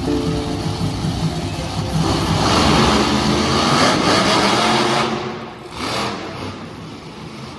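Monster truck engine revving hard in an arena, loudest in the middle and falling away about five seconds in.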